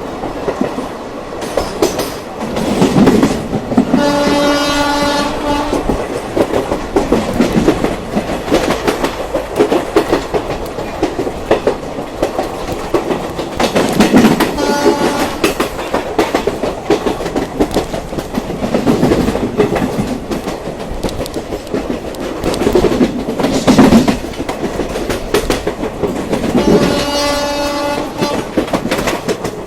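Train running with a steady rhythmic clatter of wheels over the rails, its horn sounding three times: for about two seconds some four seconds in, briefly about halfway through, and for about two seconds near the end.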